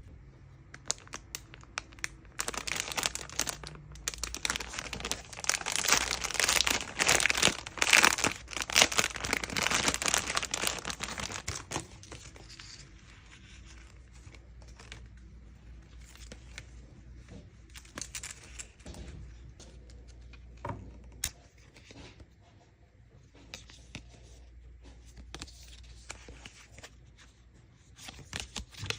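Plastic packaging being torn open and crinkled while unboxing merchandise dolls, a dense crackling rustle for about ten seconds near the start, then quieter handling with scattered small clicks and rustles.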